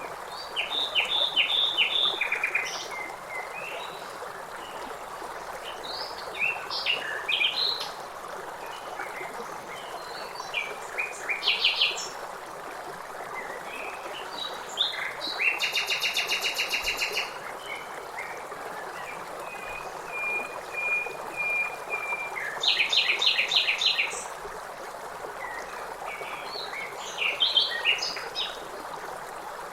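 Songbirds singing in short, separate phrases, including a fast, even trill about halfway through and a row of thin whistled notes just after, over the steady rush of river water.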